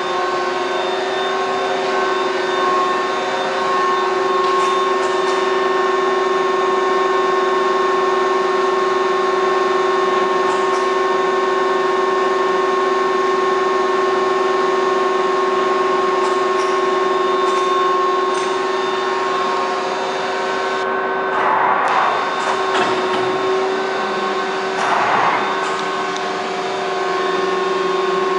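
CNC lathe running with a steady multi-tone machine whine, broken twice in the last third by short noisy bursts.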